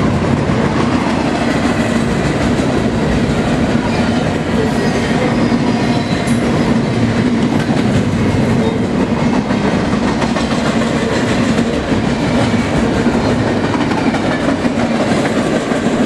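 Train rolling past on the tracks, a loud, steady rolling rumble of cars and wheels on rail that runs on without a break.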